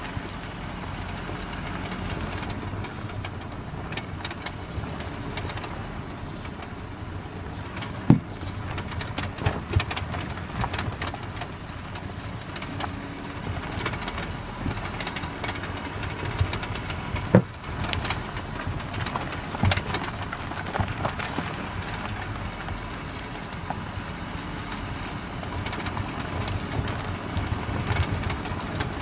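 Volkswagen Tiguan front suspension knocking: irregular clunks and clicks over steady vehicle noise, with two sharp, loud knocks about nine seconds apart.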